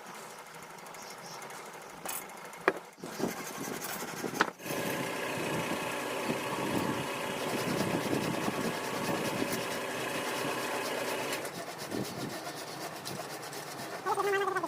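A few sharp clicks, then a small motor runs steadily for about seven seconds and cuts off suddenly.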